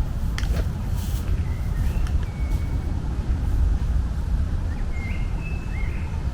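Outdoor ambience: a steady low rumble with short bird chirps about two seconds in and again near the end.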